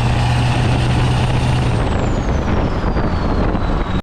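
A vehicle driving along the road: steady engine and road noise with a low hum that drops out about halfway, while a high whine falls steadily in pitch over the second half.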